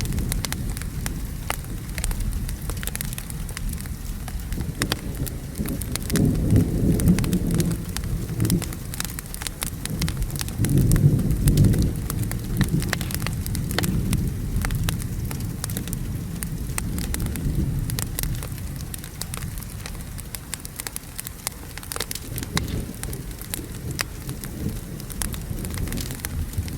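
Wood fire crackling with many small snaps over steady rain, while thunder rolls in low rumbles twice, about six seconds in and again around eleven seconds.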